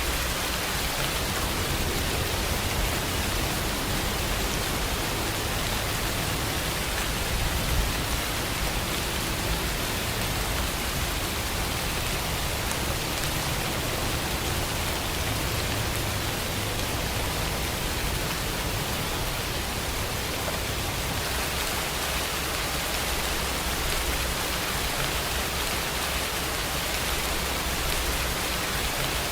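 Steady, even rain with a constant hiss and a low rumble underneath, unchanging throughout.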